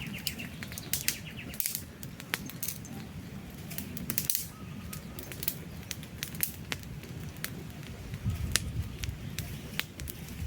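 Wood campfire crackling, with sharp snaps and pops scattered throughout over the low rush of the flames and a brief hiss about four seconds in. A bird's rapid high trill fades out in the first two seconds.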